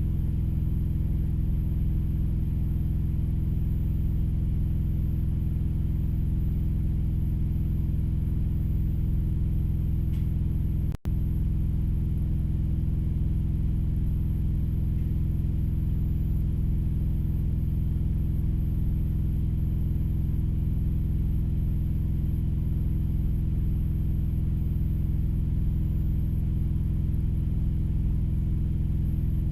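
Steady low drone of an idling vehicle engine heard from inside the cab, unchanging, with a split-second dropout about eleven seconds in.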